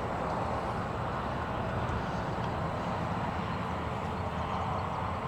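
Steady outdoor background noise: an even, low rumbling hum with no distinct events.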